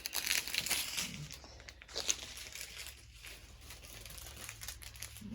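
Small plastic packets of diamond-painting drills crinkling as they are handled and sorted, an irregular rustle that is busiest in the first couple of seconds and then fainter.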